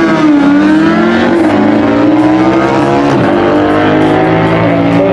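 Harley-Davidson motorcycle engine running under throttle, its pitch dipping briefly about half a second in, then climbing slowly, with another short dip and rise around three seconds in.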